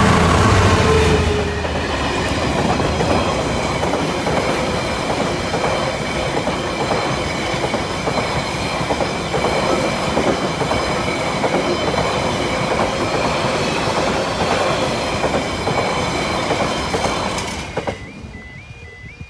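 GB Railfreight Class 66 diesel locomotive passing close by, its two-stroke diesel engine loudest in the first second or two. A long train of rail-carrying wagons follows, rumbling and clattering over the track. Near the end the train noise falls away, leaving the level crossing's warning alarm sounding in a quick repeating pattern.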